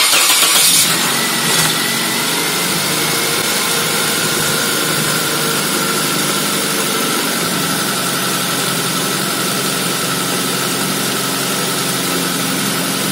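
Nissan Liberty's SR20 inline-four engine just after starting: louder for about the first second and a half, then idling steadily. It is running so that the automatic transmission's pump pushes the old ATF out through the disconnected cooler return hose.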